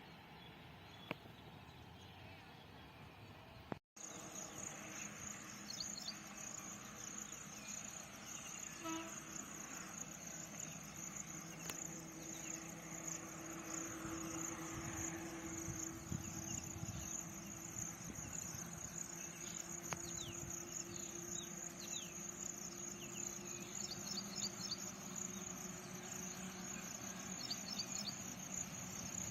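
Insects chirring in a steady high-pitched drone, with a faint low hum joining about a third of the way in and fading near the end.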